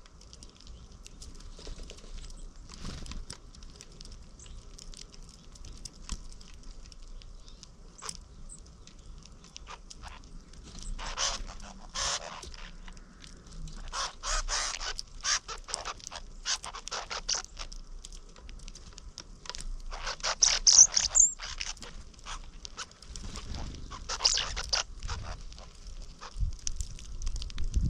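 Small backyard birds chirping in scattered bursts of short, high calls, with a faint steady background.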